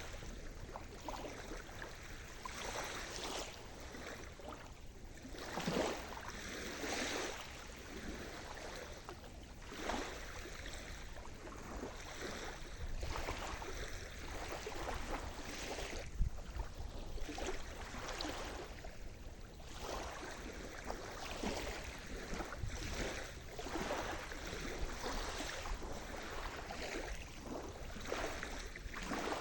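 Sea surf: small waves breaking and washing in one after another, every second or two, with a few louder washes among them.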